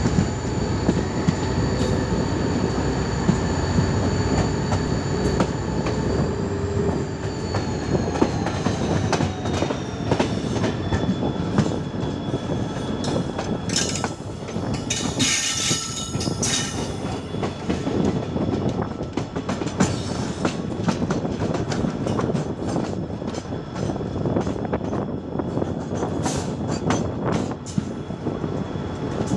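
Passenger train behind a WDP4D diesel locomotive running at speed: a steady rumble with wheels clattering over the rail joints. A steady high whine falls in pitch about a quarter of the way in, and a louder hissing rush comes about halfway through.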